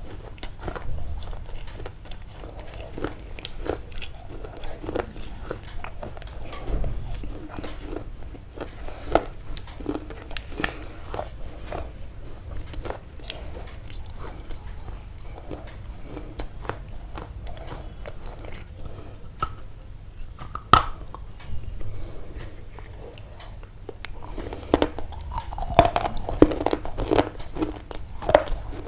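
Close-up crunching: many irregular sharp crunches and clicks, with one sharp loud snap about two-thirds of the way in and a denser, louder run near the end, over a low steady rumble.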